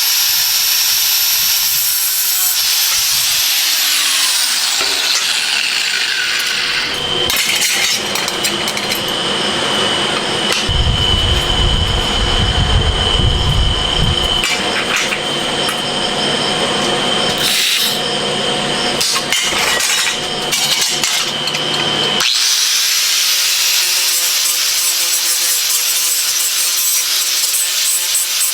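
A power tool running continuously with a steady high whine through the middle, a deeper rumble joining for a few seconds about halfway through.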